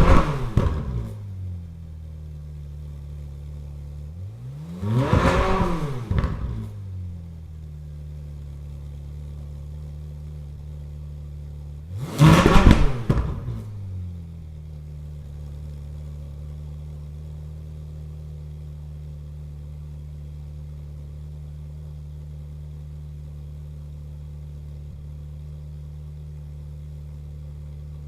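Ferrari 458 Speciale's 4.5-litre V8 idling steadily and revved twice, about five and about twelve seconds in. Each rev rises quickly and falls back to idle; a previous rev is dying away as the sound opens.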